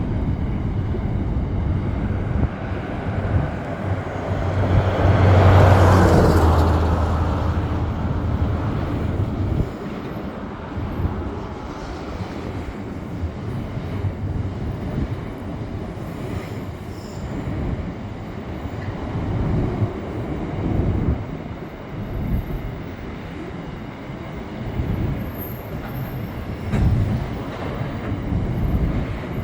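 A heavy engine passing by with a steady low hum, swelling to its loudest about six seconds in and fading after about ten seconds, then a fainter, uneven rumble.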